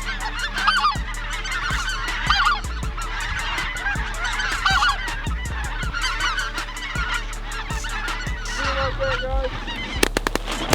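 A flock of geese honking, many calls overlapping. A few sharp bangs come near the end.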